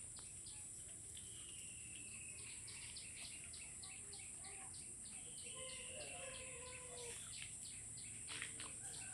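Birds calling in a rapid run of short chirps, about four a second, with a few drawn-out whistles, over a steady high-pitched drone of insects.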